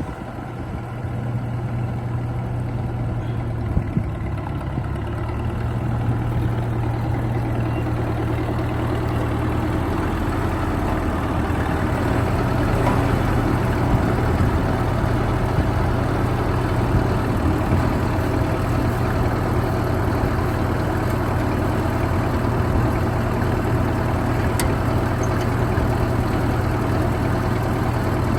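Ford 8N tractor engine running at a steady idle, growing a little louder over the stretch.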